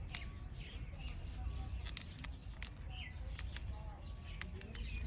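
Small birds feeding: short chirps over a run of sharp, irregular pecking clicks, with a steady low rumble underneath.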